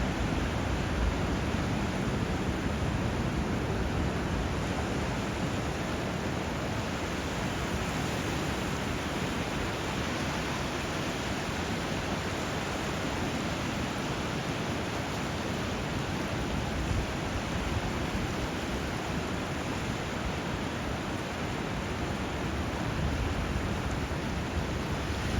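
Steady rush of flowing water, an even hiss and roar without breaks.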